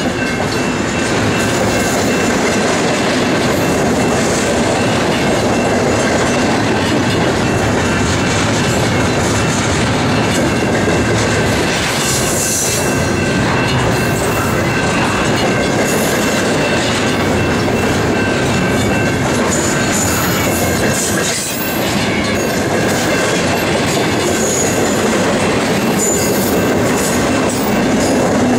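Double-stack intermodal freight train of well cars passing close by: a loud, steady rumble and clatter of steel wheels on the rails.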